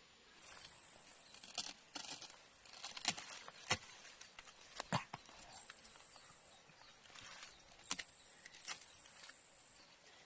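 Insect in the forest giving a high, steady buzz in bouts of one to two seconds, three times. Scattered sharp cracks and snaps like twigs or footsteps on the forest floor come in between, the loudest about three and five seconds in.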